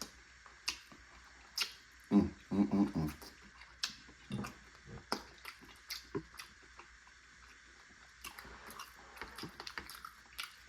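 Close-mic eating sounds of a person chewing a baked chicken wing: wet chewing, smacking and sharp mouth clicks at an uneven pace, with a brief low hum of voice about two seconds in.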